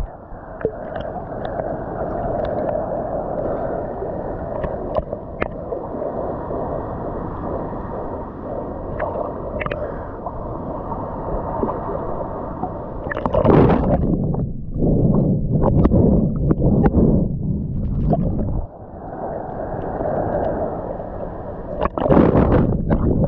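Ocean water sloshing and gurgling close by. It turns to louder, choppier splashing a little past the middle and again near the end.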